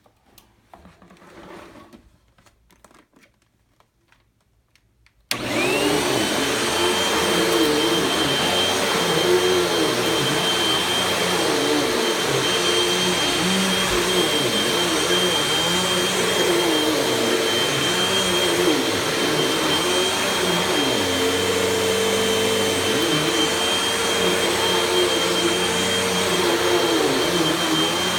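Faint handling noises, then about five seconds in a Hoover vacuum cleaner is switched on: its motor spins up quickly to a steady high whine, under which a lower hum wavers up and down as it runs.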